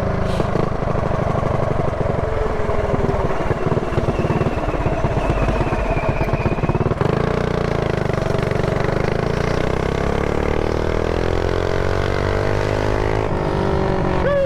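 Mini bike's small single-cylinder pushrod engine running under way, with wind buffeting the chin-mounted microphone. In the second half the engine pitch climbs steadily for several seconds as the bike accelerates.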